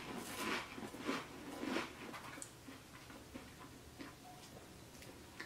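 Person chewing food close to the microphone: a few soft chewing sounds about half a second apart in the first two seconds, then only faint mouth clicks.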